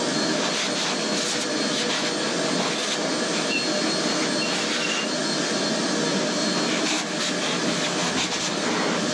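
Vacuum cleaner running steadily, sucking dirt out of an engine block.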